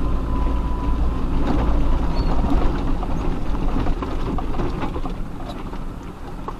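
Four-wheel-drive off-road vehicle crawling over a rough rocky track: a low rumble of engine and drivetrain, with stones and gravel crackling and rattling under the tyres. The rumble eases off about four seconds in.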